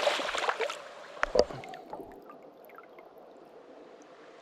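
Water splashing and sloshing in a shallow creek for the first second or so, with one sharp knock about a second and a half in, then only the faint steady wash of the creek.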